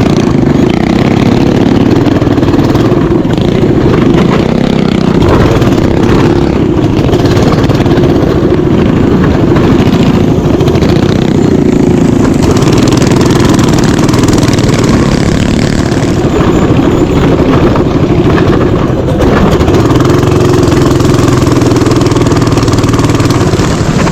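Mini bike engine running steadily and loud, close to the microphone, its pitch shifting up and down a few times as the throttle changes.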